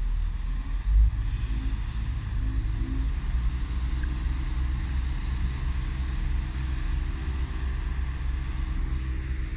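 Diesel multiple unit engines running steadily at the platform, a low continuous rumble, with a brief thump about a second in.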